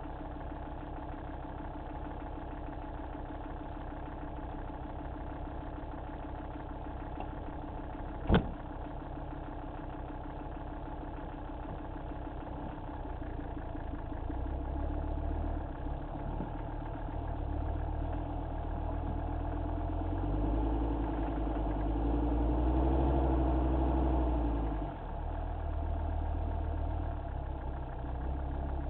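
Mercedes G-wagen engine idling steadily, then working harder and louder at low speed as the truck crawls over rock, with a brief drop in engine sound about 25 seconds in. A single sharp click about eight seconds in.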